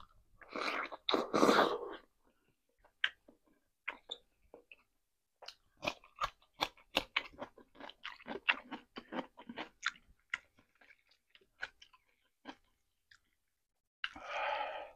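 Close-miked chewing of rotisserie chicken, with wet, crisp mouth clicks coming thick and fast from about five to ten seconds in. A louder noisy burst comes about a second in and again near the end.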